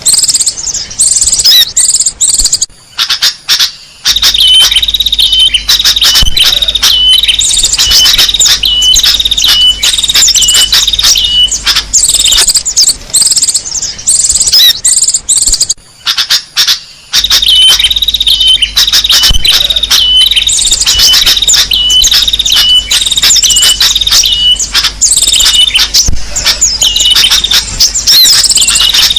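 Bird-lure recording of small songbirds chirping and calling densely and shrilly, with a row of short, quick, high notes. The recording is looped and repeats about every 13 seconds, with brief dips in between.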